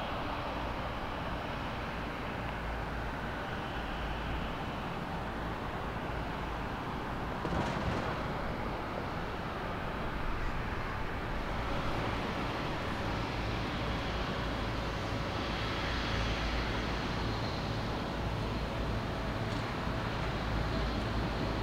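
Jet engines of a Boeing 777-200ER running at idle as it taxis, a steady rushing noise with a faint high whine. There is one brief knock about seven and a half seconds in.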